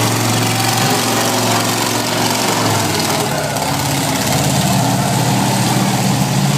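Monster truck engine running at low revs, a deep steady note that rises a little in pitch in the second half.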